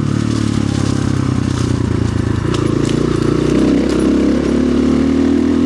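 2025 Orion RXB250XL's carbureted 250cc single-cylinder engine running at low to middling revs as the dirt bike is ridden through mud, its pitch dipping and rising a little with the throttle. A few light clicks come through about halfway.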